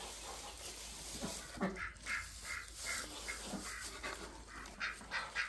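Ducks quacking in a run of short, repeated calls, starting about a second and a half in.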